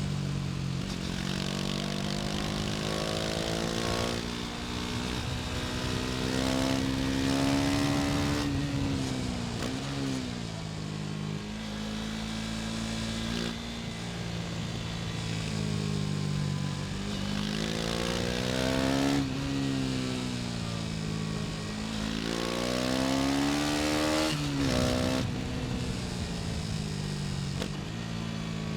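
KTM Duke 250's single-cylinder four-stroke engine pulling through the gears under acceleration: its pitch climbs, drops sharply at each shift and climbs again several times, with some easing off and rising again near the end. Wind noise runs underneath.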